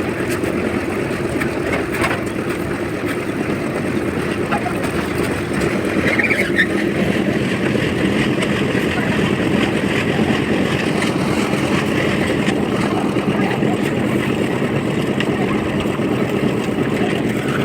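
Concrete mixer machine's engine running steadily, a constant drone that holds level throughout.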